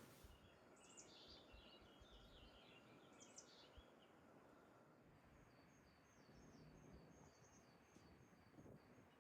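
Faint birdsong over near silence: a short warbling phrase of high chirps, then, about halfway through, a run of evenly repeated high notes alternating between two pitches.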